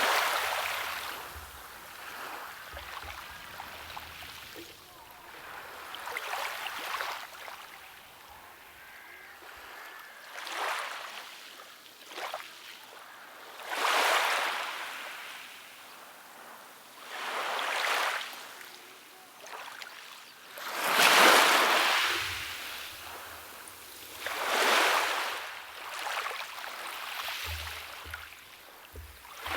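Small waves washing onto a beach, each swell rising and fading every three to four seconds, the biggest about two-thirds of the way through.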